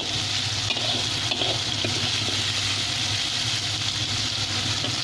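Long beans and chicken sizzling steadily in hot oil in a wok, stirred with a metal spatula that scrapes and taps the pan now and then, over a steady low hum.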